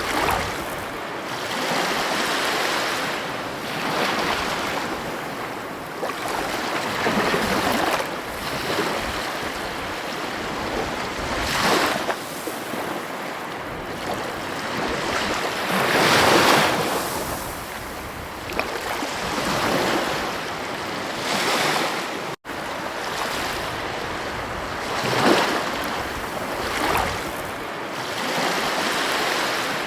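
Ocean waves breaking on a beach: a steady wash of surf that swells and fades every few seconds, with a momentary dropout about two-thirds of the way through.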